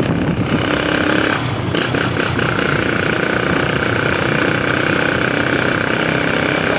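A motor vehicle running steadily at close range, with a steady whine.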